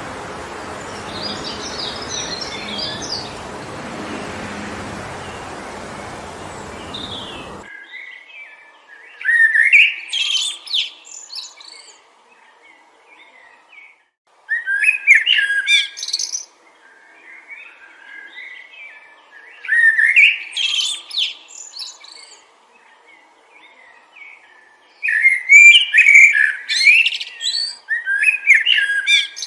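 Wind blowing steadily through forest trees, with faint bird chirps, cutting off abruptly after several seconds. Then a songbird sings a short, loud phrase of about two seconds, repeated roughly every five seconds, against a quiet background.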